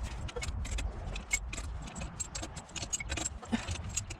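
Rapid, irregular metallic clicks and clinks of hand tools working on car parts, over a low rumble.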